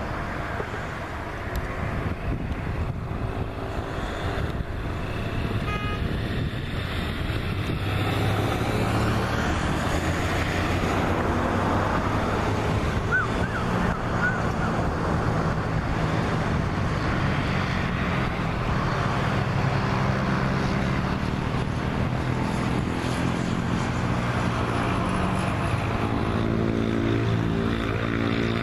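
Boeing 737 MAX 8 jet engines (CFM LEAP-1B turbofans) running with a steady roar and low hum. The sound swells over the first several seconds, then holds.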